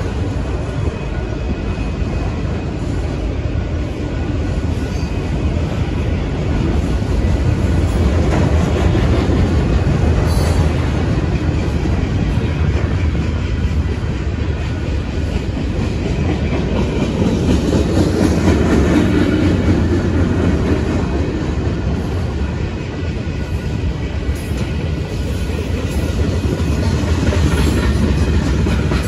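Freight cars of a manifest train rolling past: a steady rumble of steel wheels on the rails, with a rapid clacking running through it, swelling a little twice.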